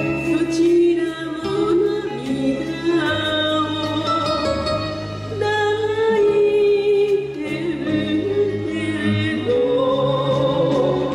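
Enka song: a voice singing a gliding melody over instrumental accompaniment with a steady bass line.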